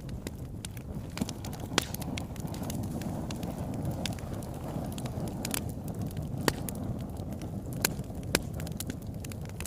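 Fire burning in a fireplace: a low steady rush of flames with frequent small crackles and pops, and a few louder snaps scattered through.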